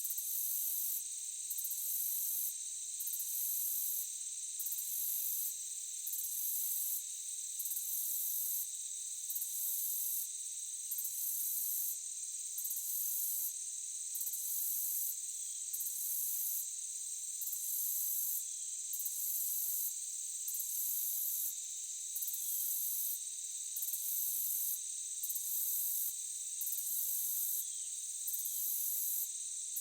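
Night insect chorus, crickets or similar, making a steady high trilling drone. Over it, a higher pulsing call repeats on and off about every second and a half.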